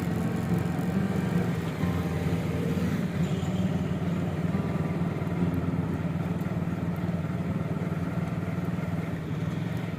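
Steady engine hum of a road vehicle with street traffic noise around it.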